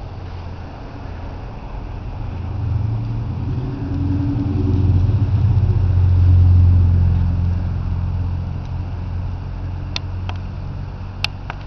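A motor vehicle's engine hum swelling as it approaches, loudest about six to seven seconds in, then fading as it passes. A few sharp clicks come near the end.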